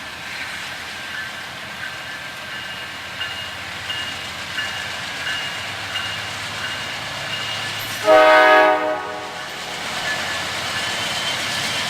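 Freight train rolling past, its wheels clicking over rail joints about every 0.7 seconds with a faint steady wheel squeal. About eight seconds in, a multi-note train horn sounds once for about a second, the loudest sound.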